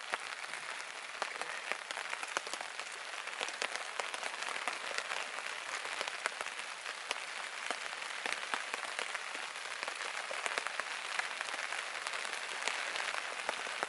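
Heavy rain falling steadily: a dense, even crackle of many individual drops striking close by.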